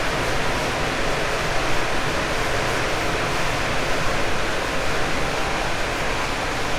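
Cabin running noise inside a 189 series electric multiple unit's motor car at steady speed: a continuous rush of wheel-on-rail and undercarriage noise mixed with the hum of its MT54 traction motors.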